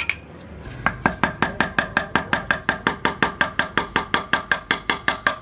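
Rapid, even tapping, about seven sharp strikes a second, starting about a second in, each with a faint ring, typical of a hand tool striking wood.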